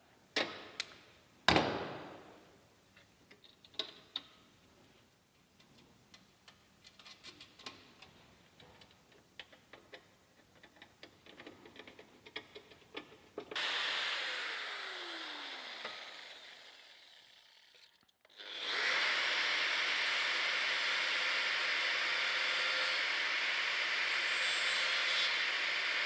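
Knocks and small clicks of metal parts being handled. Then a power tool starts and winds down with a falling whine, and runs steadily for about seven seconds before winding down again at the end.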